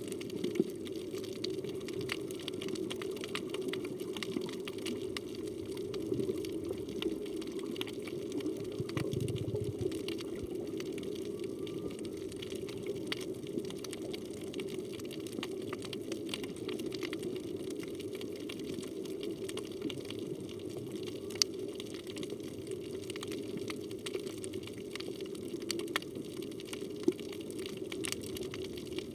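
Underwater reef ambience heard through the camera's housing: a steady rush of moving water with scattered sharp clicks and crackles throughout.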